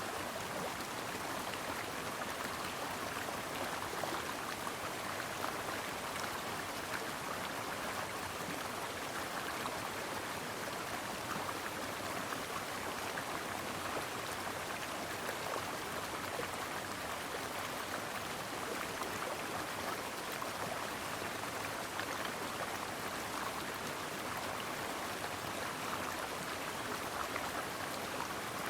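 Stream water flowing and babbling over rocks, a steady rushing with the most sound in the mid range.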